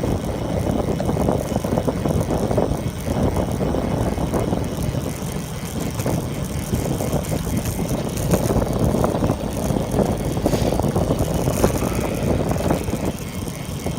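A bicycle being ridden: tyre and drivetrain noise with a steady, rushing haze of air over the microphone.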